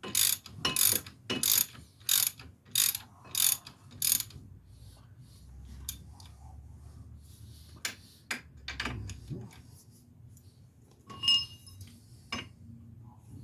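Hand ratchet wrench clicking in an even rhythm, about seven strokes over the first four seconds, as a fastener is turned. After that come quieter scattered metal clinks and a couple of sharper clanks near the end.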